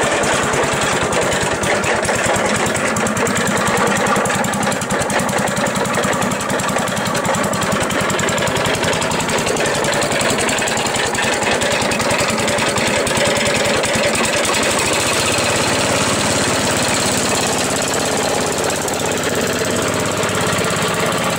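Gravely Commercial 12's 12-horsepower engine running steadily with a fast, even chugging beat. Its carburetor still needs adjusting. The low end of the sound changes about two-thirds of the way through.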